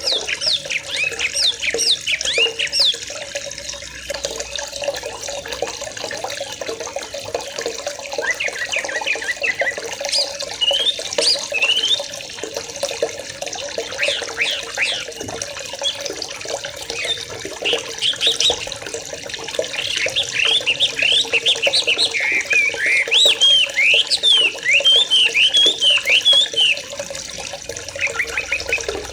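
A flock of young yellow-vented bulbuls (trucukan) chattering over a steady rush of water, many quick chirps overlapping. The calling grows denser and louder about twenty seconds in.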